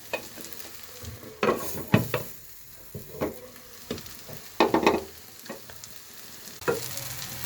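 Vegetables and mung dal frying in a pan with a steady low sizzle, being dried out and browned. A spatula stirs and scrapes against the pan about five times.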